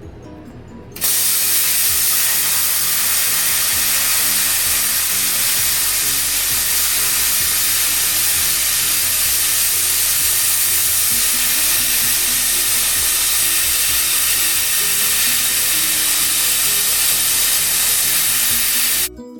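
A loud, steady hiss as a tool cuts a flange out of steel flat plate. It starts suddenly about a second in and cuts off suddenly near the end, with background music underneath.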